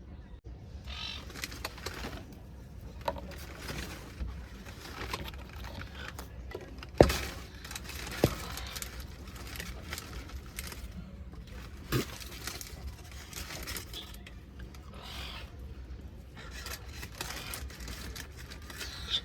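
Seagulls calling here and there, with three sharp knocks, the first the loudest, about 7, 8 and 12 seconds in.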